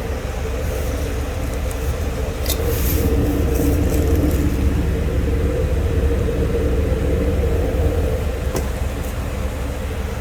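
The 2010 Lincoln Navigator's 5.4-litre V8 running, a steady low rumble that grows louder a couple of seconds in and eases back near the end.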